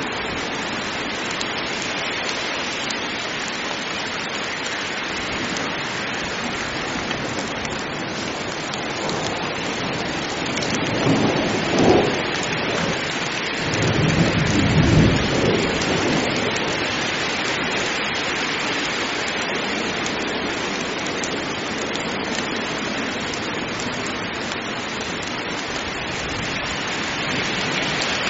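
Heavy rain pouring steadily, with a roll of thunder rumbling through the middle that peaks twice before fading back into the rain.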